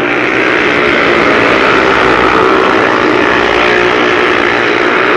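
Several single-cylinder, methanol-burning speedway motorcycle engines running flat out together in a race, loud and steady.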